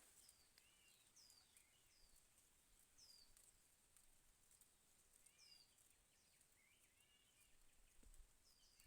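Faint bird calls: short, high descending chirps repeated about once a second, with a few lower warbled notes in between.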